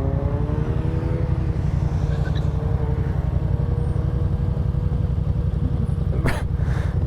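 Motorcycle engine running under way on a Yamaha FZ-07 parallel-twin, its pitch rising over the first second and then holding steady. A heavy, pulsing wind rumble on the helmet microphone sits underneath.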